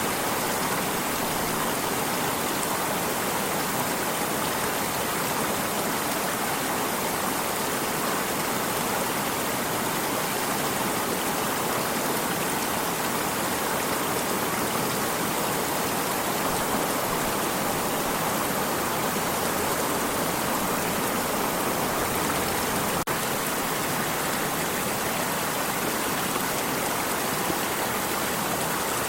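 Water stream running, a steady, even wash of flowing water with no change in level.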